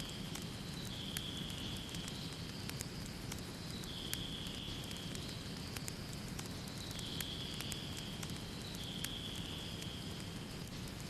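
Wood fire crackling, with irregular sharp pops over the steady low rush of the flames. A faint high hiss or whistle sounds for a second or so at a time and recurs about every two seconds.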